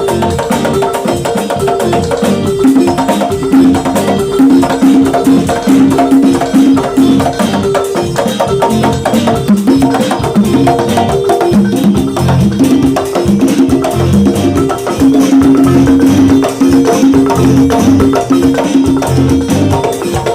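Live band playing an instrumental passage of a song at a sound check, with a busy percussion rhythm of wood-block-like clicks under repeated melodic notes.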